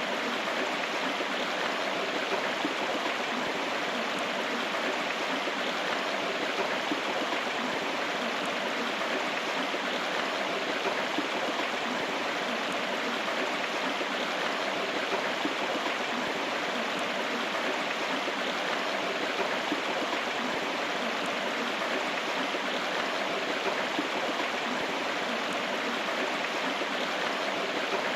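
River water flowing steadily over rocks, an even rushing with no breaks or single events.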